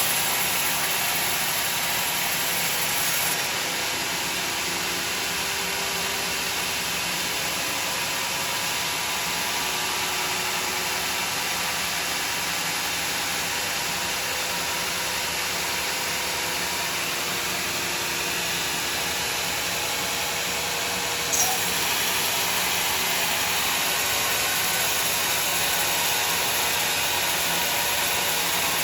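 Sawmill saw and machinery running with a steady noise. The sound shifts slightly about three seconds in and again about two-thirds through, with a sharp click at the second change.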